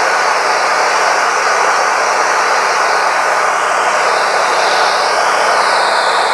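Wood-Mizer LT40 Wide band sawmill running steadily while milling yellow pine cants. A high tone in the noise drops, rises and settles again about two thirds of the way through.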